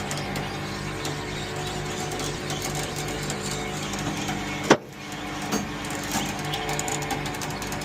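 A vehicle engine running steadily with a regular low pulsing, and one sharp click a little past the middle.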